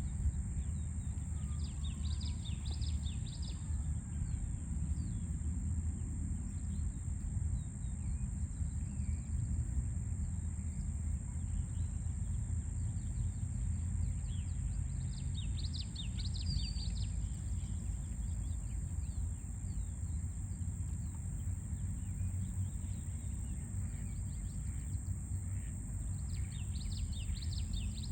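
A small bird chirping in three short bursts of quick high notes over a steady low rumble of city traffic, with a constant thin high-pitched hiss throughout.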